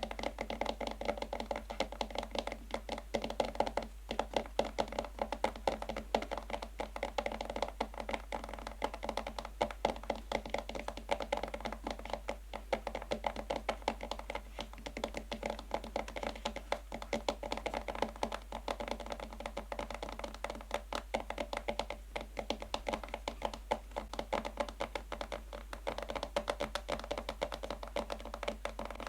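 Natural fingernails tapping quickly and continuously on a box, a dense run of light clicks with no pauses.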